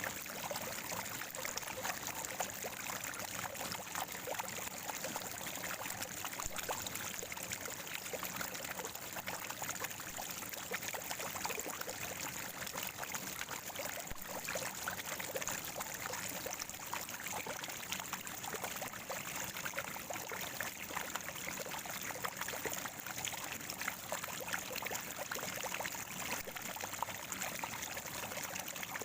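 Water from a natural spring gurgling and trickling steadily, a constant rush full of small splashes.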